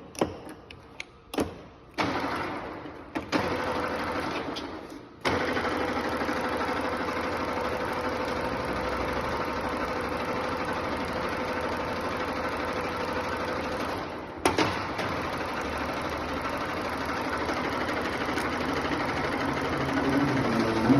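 Yamazaki REX610x5000 general-purpose lathe on a test run: a few sharp clicks and two short bursts of the machine starting and winding down, then the headstock drive running steadily from about five seconds in. A sharp click comes about two-thirds of the way through, and the machine keeps running after it.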